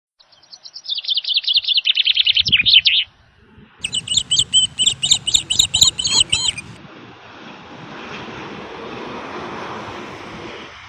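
A songbird sings two phrases: a fast high trill lasting about three seconds, then, after a short pause, a run of quick repeated high notes. After that, a steady rushing hiss fills the rest.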